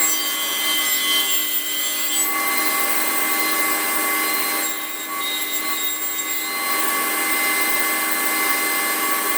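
Power saw running steadily while cutting wood, with a steady motor whine under the cutting noise; the high cutting noise eases off for a second or two around the middle.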